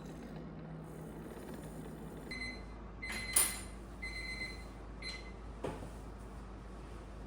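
A short run of four electronic beeps over a steady low hum, with a sharp click among them and another click just after.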